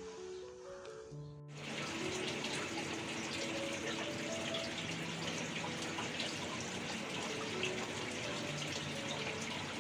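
Steady rush of running or splashing water that starts suddenly about a second and a half in, over gentle background music.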